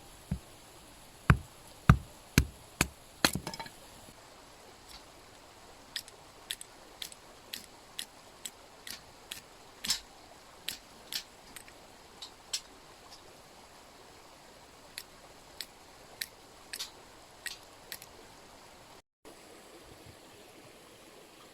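Sharp chopping strikes on firewood, about eight heavy blows in the first few seconds, followed by lighter scattered snaps and clicks, over the steady hiss of a mountain stream.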